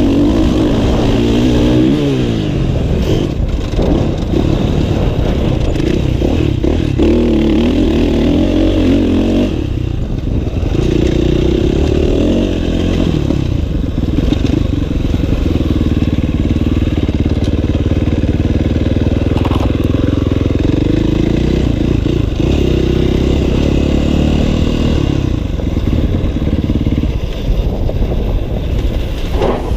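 Motocross bike engine running hard, its pitch climbing and dropping over and over as the throttle opens and closes through the gears.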